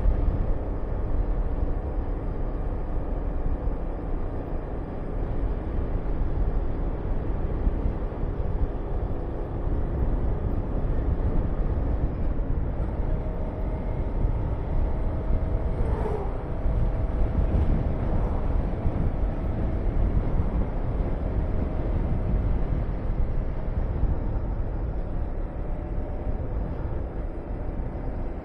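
Honda VTR250 V-twin engine running while riding, with heavy wind noise rushing over the microphone. About halfway through, a brief sound falls in pitch.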